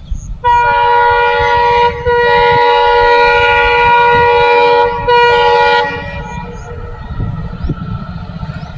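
Indian railway locomotive horn sounding three blasts: a short one, a long one, then a short one. After that the horn stops and the low rumble of the train running on the track carries on.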